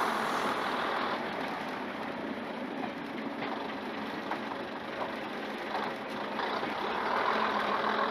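Class 121 diesel railcar running along the line: a steady engine and wheel noise, with a few light clicks near the middle.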